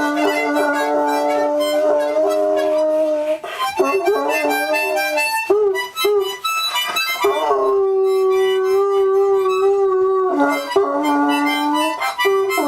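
A harmonica playing long held notes and chords while a dog howls along.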